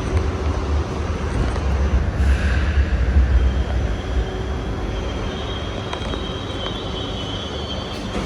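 Hong Kong Light Rail Phase III train running, heard from inside the car: a steady low rumble from the wheels and motors that is heaviest for the first few seconds and then eases. From about halfway through, a thin high wheel squeal joins in.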